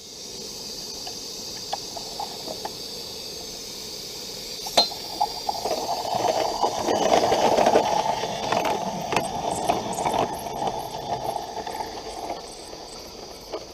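A coal-fired Roundhouse Lady Anne live steam garden-railway locomotive pulling away with its train: a steady hiss of steam, then a louder rushing of steam exhaust with scattered clicks that builds about five seconds in and fades away near the end.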